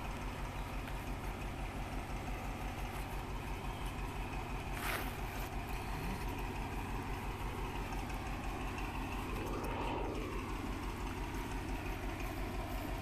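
Distant diesel locomotive of a passenger train running steadily as it crosses the far bank, a low even engine drone. A short sharp click comes about five seconds in.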